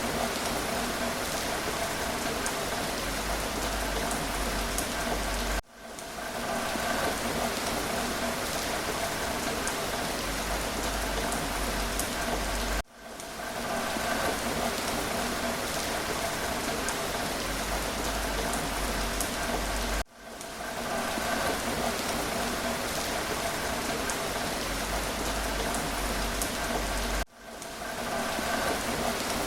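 Steady rain falling on a surface: an even hiss with scattered drop ticks. About every seven seconds the sound drops out abruptly and fades back in, as a short looped rain recording restarts.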